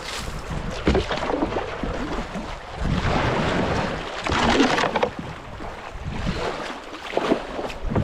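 Kayak running a shallow creek rapid: rushing water and paddle splashes, with a couple of sharp knocks as the hull hits rocks and the boat spins.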